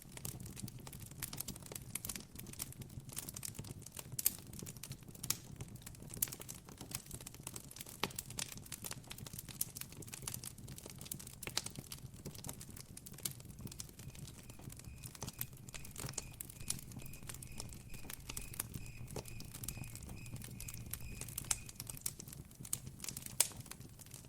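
Campfire crackling, with irregular sharp pops and snaps over a steady low rumble of burning wood. From about halfway through to near the end, a faint cricket trill, a quick even pulsing on one high note, sounds in the background.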